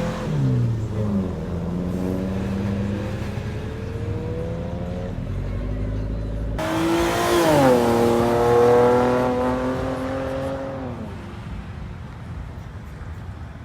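Car engines revving and accelerating as they pull away. About six and a half seconds in the sound changes abruptly to a louder engine that climbs in pitch, drops, then holds a steady note and fades out about eleven seconds in.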